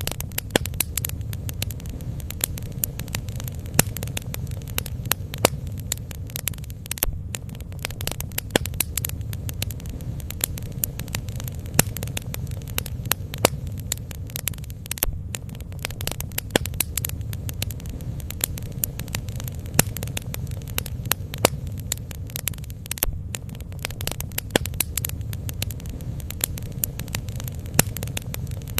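Bonfire burning: wood crackling and popping in many sharp, irregular snaps over a steady low rumble.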